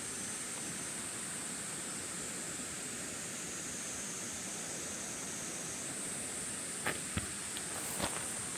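Steady rushing of a spring-fed stream, with a steady high-pitched hiss above it and a few light clicks about seven and eight seconds in.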